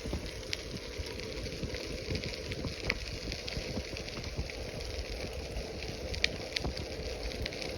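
Bicycle tyres rolling over a crushed-stone trail, making a steady gravelly crackle with a few sharper pops from stones. Wind rumbles on the microphone underneath.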